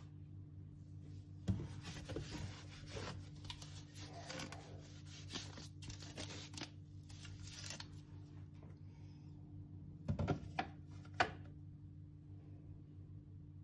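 Rubbing and scraping on a surface for several seconds, then a few sharp knocks about ten seconds in, over a steady low hum.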